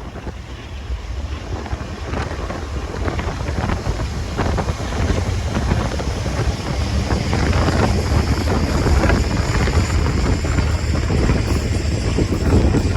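BNSF freight train approaching slowly, its rumble building steadily with scattered clanks and knocks from the wheels and cars. Wind buffets the microphone, and a faint high whine creeps in over the second half.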